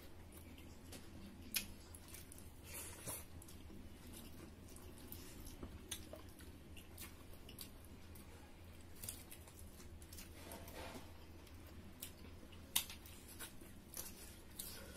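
Several people chewing and eating pork and rice with their hands, with wet mouth smacks and scattered small clicks. Two sharper clicks stand out, about a second and a half in and near the end. A low steady hum runs underneath.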